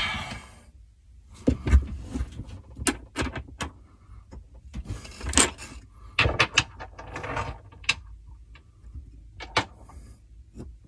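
Irregular clicks, knocks and scrapes of tools and metal fuel-filter parts being handled and fitted by hand, a dozen or so sharp taps spread unevenly over the stretch.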